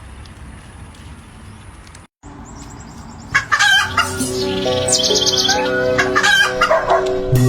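Steady background noise, then after a brief break, loud fowl calls from about three seconds in, over music with long held notes.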